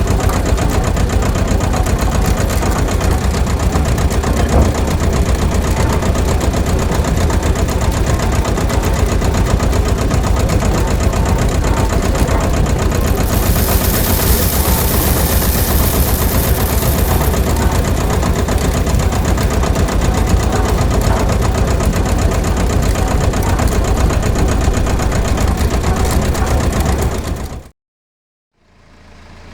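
Homemade mini rice mill machine running steadily on its small motor, with a fast, even mechanical rattle; a hiss joins for a few seconds midway, and the sound cuts off suddenly near the end.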